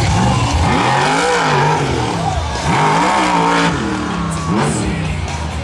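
Tailgator monster truck's engine revving hard, its pitch climbing and falling in several big sweeps.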